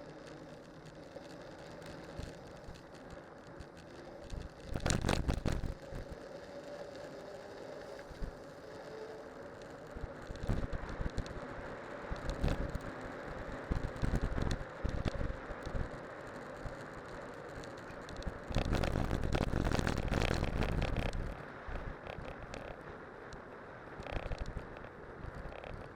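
Cyclocross bike on studded tyres rolling downhill on a winter road: steady tyre and road noise with small rattles and clicks from the bike. Two louder rushes of noise stand out, a short one about five seconds in and a longer one of about three seconds later on.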